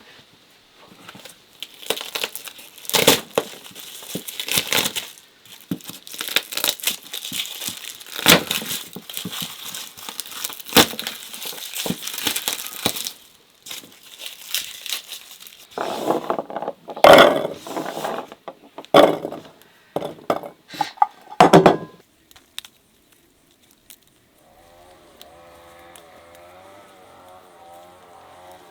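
Irregular crinkling and crackling handling noise with sharp clinks, heavier in a few loud bursts past the middle. Near the end a faint hum with a wavering pitch starts.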